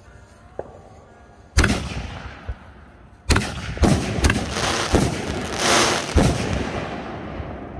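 Consumer aerial fireworks going off: a sharp bang about a second and a half in, then a louder string of five bangs from about three seconds in as the shells burst overhead, with a hiss between the last bangs before it dies away.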